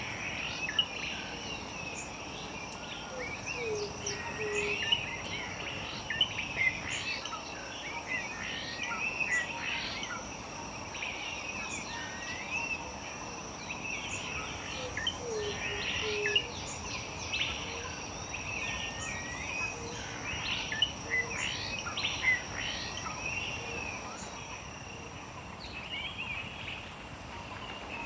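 Several small birds chirping and warbling together, over a steady high insect whine that stops near the end. A low call sounds twice.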